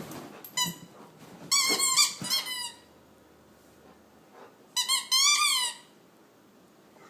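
A dog chomping on a squeaky plush dodo bird toy, making it squeak in three bouts: a short squeak, a quick run of wobbling squeaks, then another run a few seconds later.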